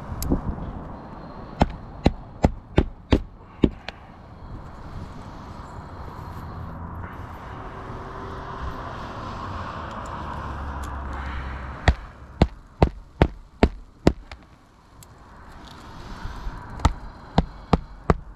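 Roofing hatchet driving roofing nails into an asphalt shingle: three runs of sharp hammer strikes, about two or three a second, with a softer stretch of noise between the first and second runs.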